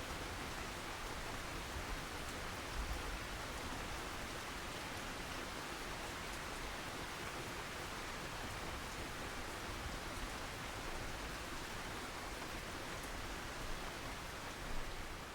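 Steady rain falling: an even hiss with faint scattered drop ticks, and one slightly louder tap near the end.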